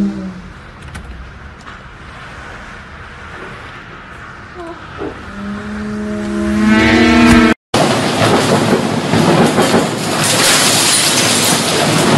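Storm-force wind, about 200 km/h. It starts as a quieter rushing, and after a brief cut about two-thirds of the way in it becomes a loud, even roar battering the microphone. A low, steady horn-like tone sounds at the very start and again for a couple of seconds before the cut.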